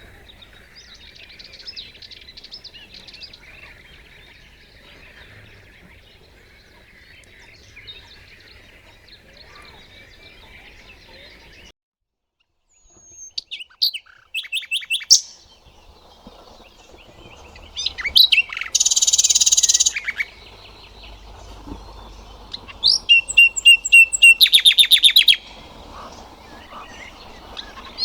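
Nightingale singing: loud separate phrases of rapid repeated notes and a buzzy trill with pauses between them. Before that, a faint chatter of background birds cuts off about twelve seconds in.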